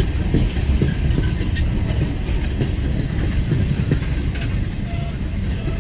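Freight train of tank cars rolling past at close range: a steady, loud rumble with the clatter of wheels over the rails.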